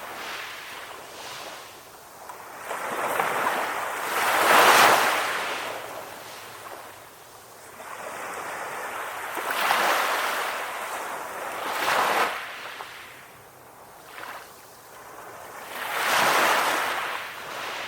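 Calm ocean waves breaking and washing on the shore, each surge swelling and fading over a few seconds. The loudest surge comes about five seconds in, with further surges near ten, twelve and sixteen seconds.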